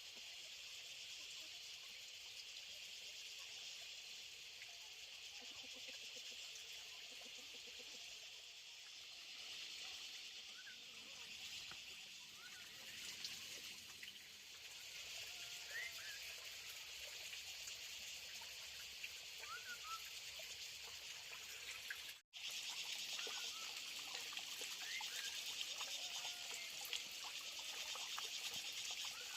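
Outdoor rural ambience: a steady high hiss with scattered short, rising chirps, briefly cut off about 22 seconds in and slightly louder after.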